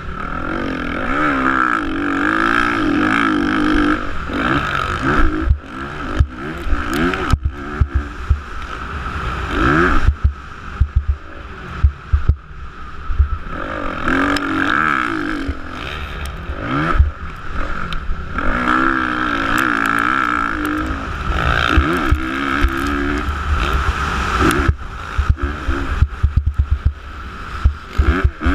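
Motocross bike engines revving up and down repeatedly as the bikes race around the track, with frequent short knocks and thumps mixed in.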